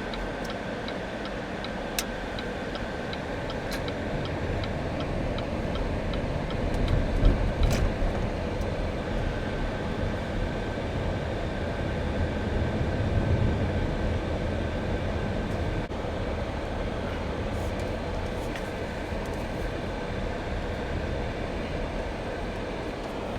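Car cabin noise while driving: a steady low road and engine rumble that swells a couple of times, with a quick regular ticking over the first few seconds.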